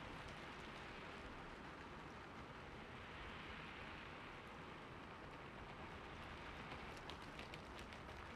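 Steady rain falling, a soft even patter, with a short run of small drop ticks near the end.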